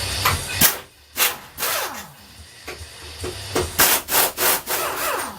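A series of irregular scraping or rubbing strokes, some short and some drawn out, spaced unevenly.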